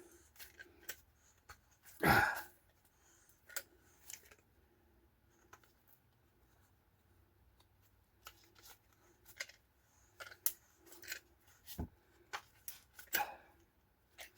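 Scattered clicks, clinks and light knocks of hand tools and brake parts being handled, with one louder knock about two seconds in.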